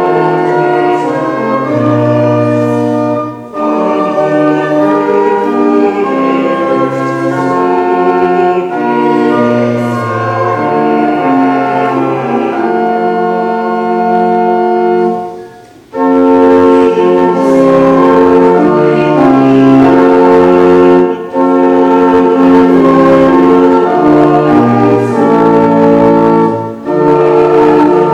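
Church organ playing a slow piece in held chords, with short breaks between phrases.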